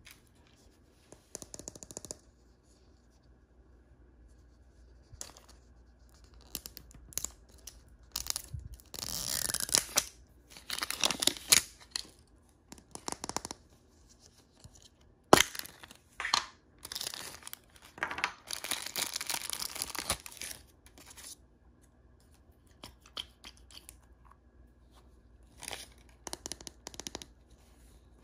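Blind-bag and wrapper packaging being torn open and crinkled by hand, in repeated rustling bursts. There is one sharp snap about halfway through, and lighter crackles near the end.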